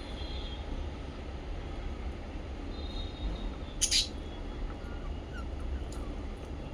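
Small pet parrots chirping: faint thin high notes, then one sharp, loud high call about four seconds in, over a steady low rumble.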